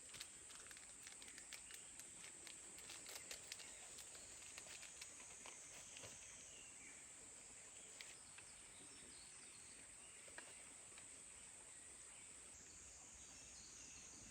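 Faint summer forest ambience: insects chirring in a steady high buzz, with scattered soft clicks and taps, most of them in the first few seconds.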